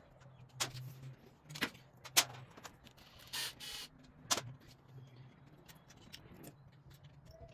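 Hand tools clinking on metal motorcycle engine and transmission parts during disassembly: a few sharp separate clicks and knocks, with a brief hiss a little past three seconds in.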